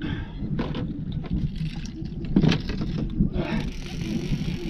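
Several short knocks and clatters of fishing gear being handled in a boat, over a steady low rumble.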